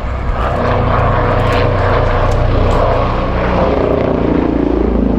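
TAI T625 Gökbey helicopter flying close in a display, its rotor and turbine sound loud and steady, with a tone climbing in pitch near the end.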